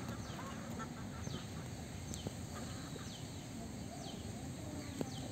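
Birds chirping: short, high, thin calls that slide downward, repeating every half second to a second over a steady low background noise, with a light tap near the end.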